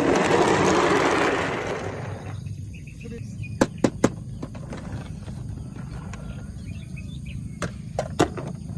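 A rushing noise for about two seconds, then sharp clicks in two quick groups of three, as of toy cars being handled and knocked together.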